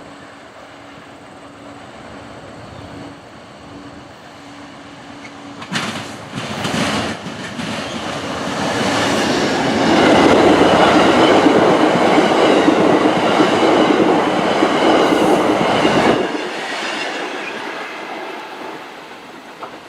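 A passenger train passing close by, its wheels clicking over the rail joints. It builds from a distant rumble to its loudest about ten seconds in, then the low rumble drops off suddenly and the sound fades as the train moves away.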